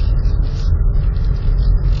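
Storm wind buffeting the microphone: a loud, steady, low rumble with hiss above it.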